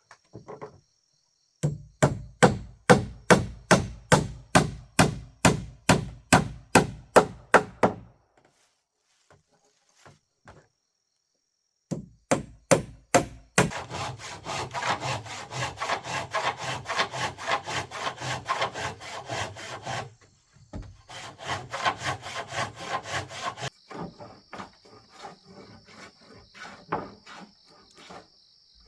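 Hand saw cutting wood in steady back-and-forth strokes, about two and a half a second. After a pause the sawing resumes faster and denser, stopping briefly, then goes on as softer strokes while a steady high insect trill sounds.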